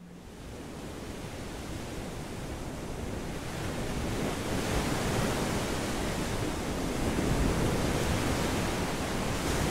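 Rushing of ocean surf: a steady hiss of water that swells over the first few seconds and then holds.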